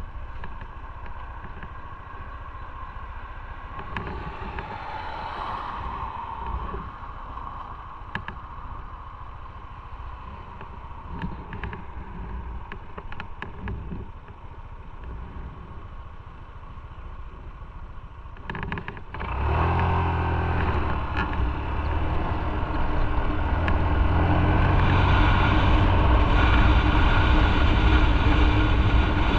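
Motorcycle engine and wind noise on the move. The first part is quieter, with a few light clicks; about two-thirds of the way in the engine note gets much louder and climbs as the bike accelerates.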